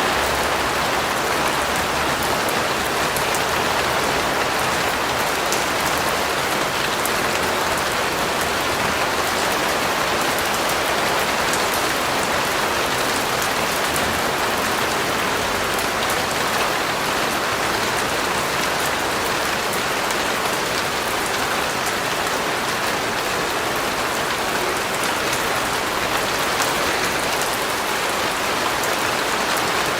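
Steady rain falling on a surface, an even hiss of many drops with fine drop ticks and no letting up.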